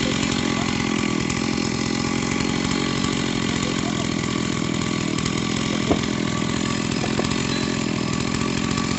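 Two-stroke chainsaw engine running at a steady speed, with a short sharp knock about six seconds in.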